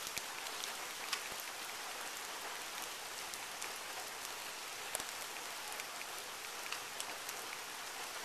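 Steady rain falling on pavement and grass, with a few sharper drops ticking close by.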